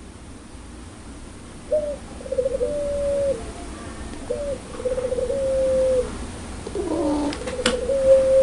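Puter pelung dove cooing its laughing call three times, each call a short note, a quick rolling trill, then a long held note. A sharp click comes near the end.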